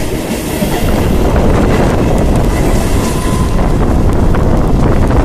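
Mumbai suburban local train running, heard from inside the coach: a steady, loud low rumble of wheels on rail with a light clatter of clicks.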